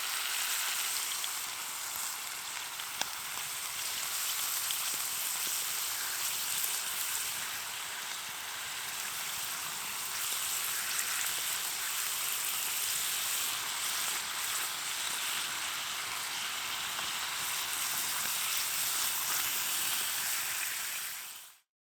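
Food sizzling steadily in a cast iron pan over a fire, with a few small crackles. It fades out just before the end.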